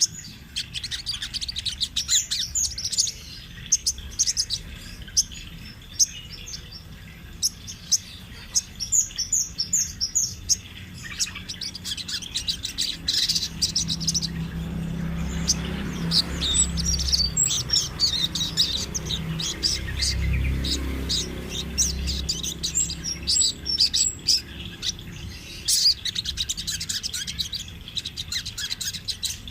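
Spotted sogon (a spiderhunter) singing continuously in bouts of rapid, high-pitched chirping notes. A low rumble sits underneath around the middle.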